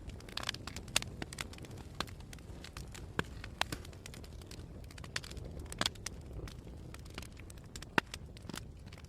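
Campfire crackling: irregular sharp pops and snaps of burning wood over a steady low rush, with one loud pop near the end.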